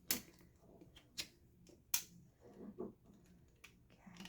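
Plastic building bricks clicking and snapping as they are pressed into place: a few sharp clicks about a second apart, with fainter ticks between.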